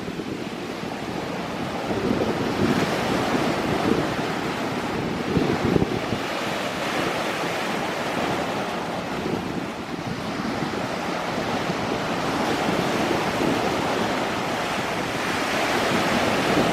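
Sea waves washing onto a beach, the surf swelling and easing, with wind buffeting the microphone.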